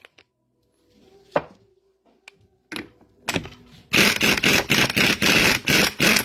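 Hand tools and metal hydraulic valve parts clicking and knocking, a few separate clicks, then a dense burst of rapid clicking near the end.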